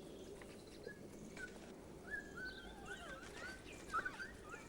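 Forest ambience: many short, quick chirping calls, coming every half second or so from about a second and a half in, over a faint low hiss.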